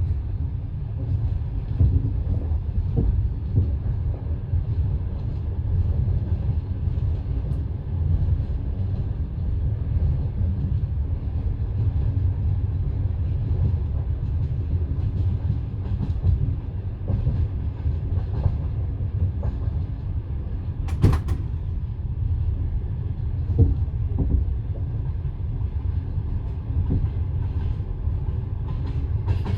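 Passenger train wheels clattering over the rail joints with a steady low rumble, heard aboard the moving train. There is one sharp knock about two-thirds of the way through.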